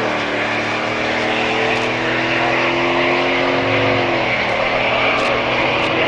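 A steady engine drone made up of several pitched notes, which dip slightly at the start and again about four seconds in.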